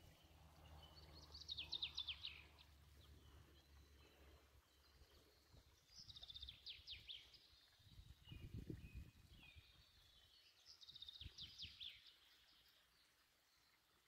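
A songbird singing faintly: three phrases about four to five seconds apart, each a quick run of high, descending notes lasting about a second. A brief low rumble comes about two-thirds of the way through.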